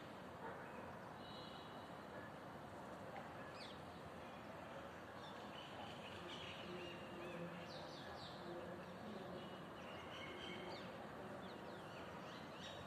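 Faint steady background noise with many short, high chirps of small birds scattered throughout, more of them in the second half.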